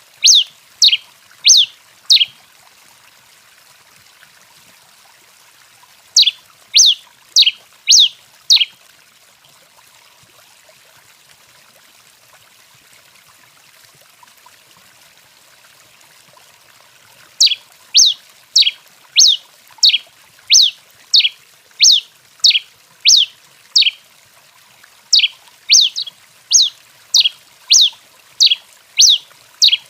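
Tico-tico-rei (pileated finch) singing in bouts of sharp, downward-slurred notes, a little under two a second. There are four bouts with pauses between them; the longest, past the middle, runs to about a dozen notes.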